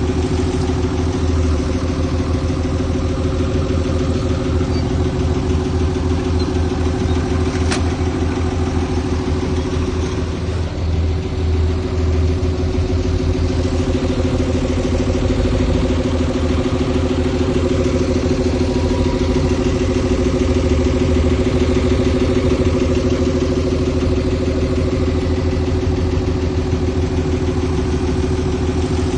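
Heavy diesel machinery engine running steadily, with a single brief click about eight seconds in.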